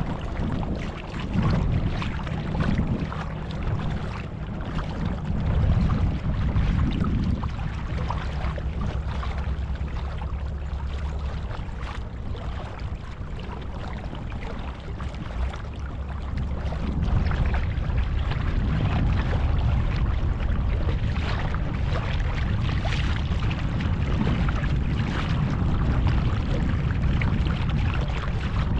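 Small boat's motor running steadily under way, with a rush of wind and water; it gets louder about two-thirds of the way through.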